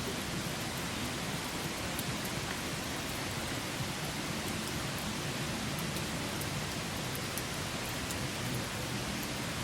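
Wood campfire burning: a steady hiss with small, scattered crackles and pops.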